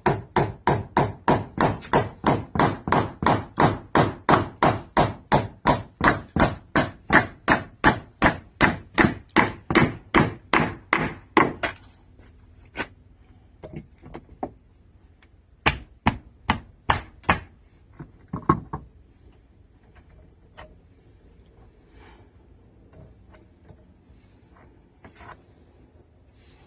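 Hammer driving galvanized trim nails into treated wood: rapid, even strikes, about three a second, for some twelve seconds. Then a handful of slower, lighter blows and scattered faint taps.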